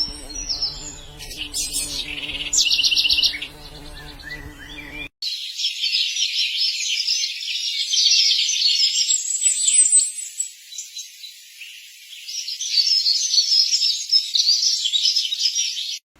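Birds chirping: scattered calls and a short rapid trill over a low hum, then after a cut about five seconds in, a dense, continuous chorus of many small birds chirping and twittering together.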